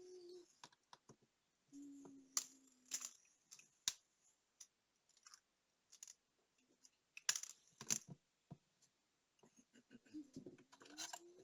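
Scattered small clicks and taps of tools and tiny parts, a few close together, with quiet gaps between. A short, steady low hum is heard about two seconds in.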